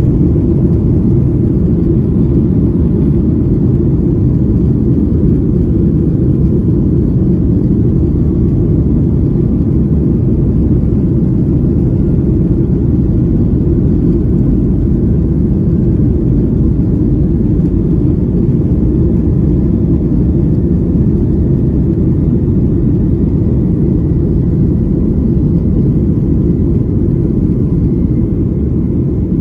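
Boeing 737 cabin noise in flight: a steady, dense rumble of engines and airflow, with a faint thin whine above it.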